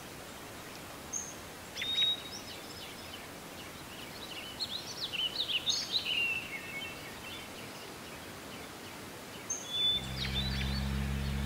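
Birds chirping and singing in short scattered calls over steady outdoor background noise. Near the end a low steady hum starts.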